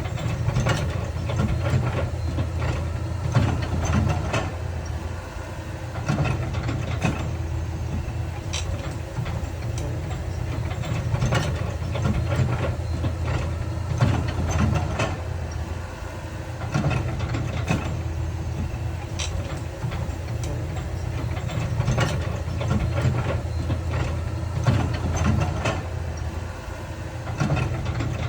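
Heavy diesel construction machinery running steadily, with frequent irregular clanks and knocks over the engine.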